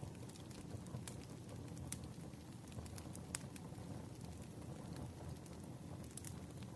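Firewood burning, crackling with scattered sharp pops about once every second or two over a steady low rumble.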